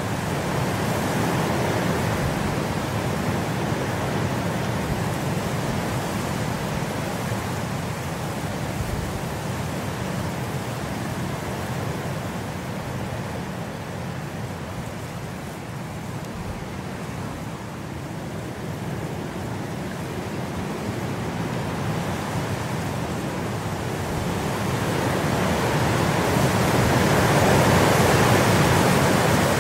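Steady rain, an even hiss with no distinct drops, easing slightly around the middle and swelling louder near the end.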